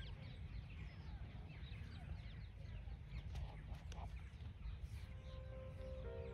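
Many small birds chirping in short, quick notes over a steady low rumble. Soft background music begins near the end.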